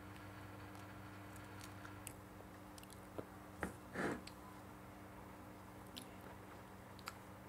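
A child biting into and chewing a soft bread roll filled with chicken and mayonnaise: quiet chewing with faint wet mouth clicks, and one louder mouth sound about four seconds in. A steady low electrical hum sits underneath.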